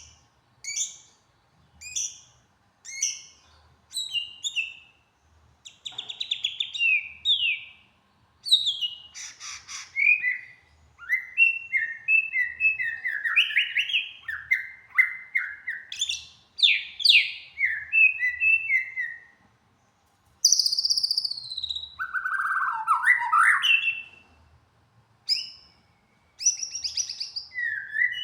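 A songbird singing a varied series of short phrases: quick notes sweeping up and down, with rapid trills mixed in and brief pauses between phrases.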